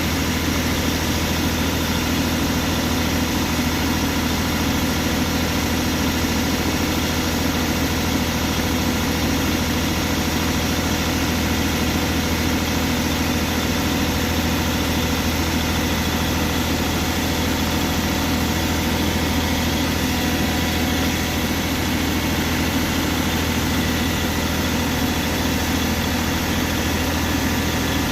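Engine idling steadily at a constant speed, with no revving.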